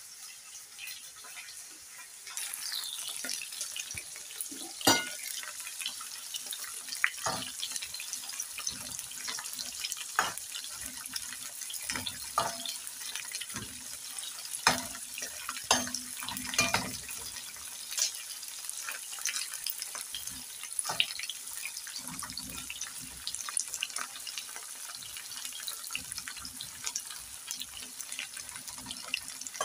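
Small fish frying in hot oil in a pan: a steady sizzle with frequent crackles and pops of spattering oil, growing louder and brighter about two seconds in.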